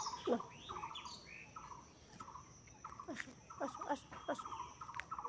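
Birds calling, a steady run of short repeated chirping notes, with a few sharp clicks among them.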